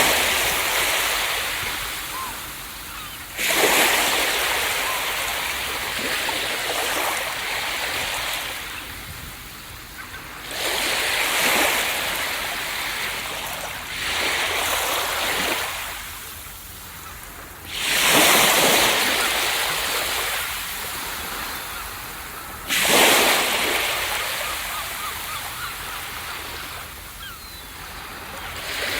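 Ocean waves breaking on a beach, six in turn, each a sudden rush of surf that fades away over a few seconds into a steady wash of water.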